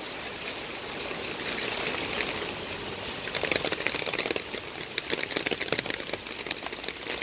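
Heavy rain falling on wet paving: a steady hiss, with a denser patter of sharp drops and splashes from about three seconds in.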